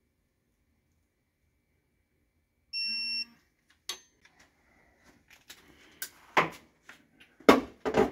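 A single electronic beep lasting about half a second, a few seconds in, after near silence. It is followed by a run of sharp clicks and knocks from tools working on the engine block, loudest near the end.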